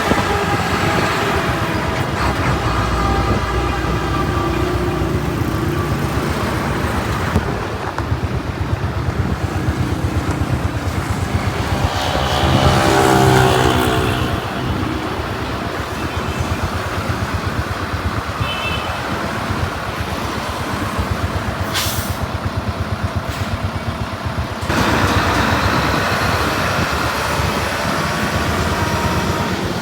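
Truck engine running with a rapid steady pulse, swelling louder for a couple of seconds near the middle; the sound changes abruptly twice.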